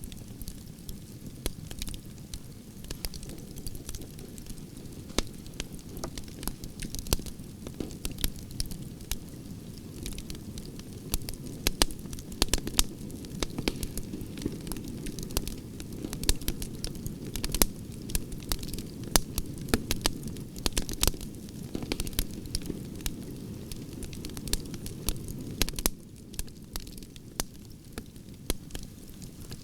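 Campfire of burning branches crackling, with many sharp irregular pops over a steady low rumble of flames.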